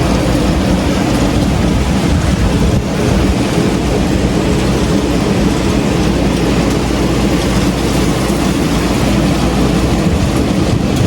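Heavy rain and strong gusting wind from a severe thunderstorm make a loud, steady rushing noise, with a deep rumble from the wind buffeting the microphone.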